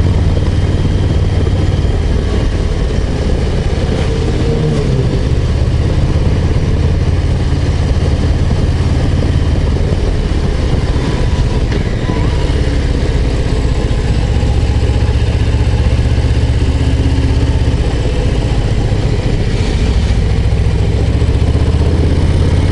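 Harley-Davidson Low Rider ST's Milwaukee-Eight 117 V-twin running steadily under way, its engine note shifting briefly about four seconds in and again past the middle.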